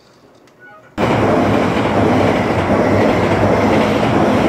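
Running noise of a limited express train heard from inside the passenger car: a loud, steady rumble of wheels on rail that cuts in suddenly about a second in.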